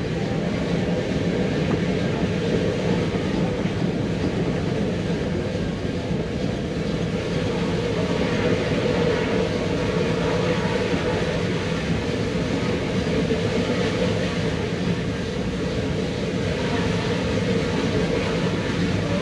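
Mount Washington Cog Railway train climbing the rack track: the steady running noise of the locomotive and coach.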